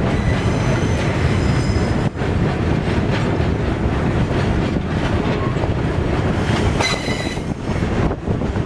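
Freight train of covered hopper wagons rolling past with a steady rumble and occasional clacks of the wheels. The wheels squeal in thin high tones twice: faintly near the start and more strongly for about half a second around seven seconds in.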